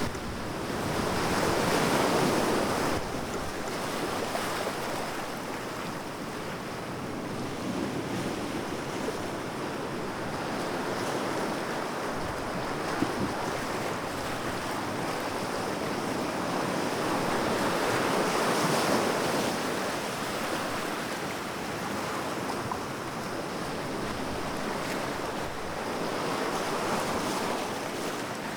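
Ocean surf: a continuous rush of waves breaking and washing in, swelling louder and ebbing again, with the biggest swells about two seconds in, in the middle and near the end.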